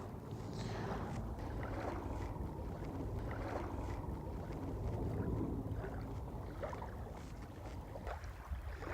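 Wind buffeting the microphone in a steady low rumble, with small waves lapping against the bank.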